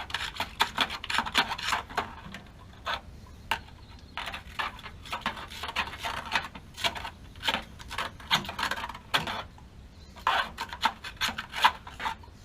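Irregular scraping and rubbing with scattered sharp clicks: hand work on a gas water heater's parts, in quick strokes with short pauses.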